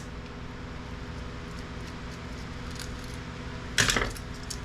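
Small clicks of hand tools and plastic printer parts as a small motor is worked out of a printer's scanner assembly, with a louder clatter near the end, over a steady low hum.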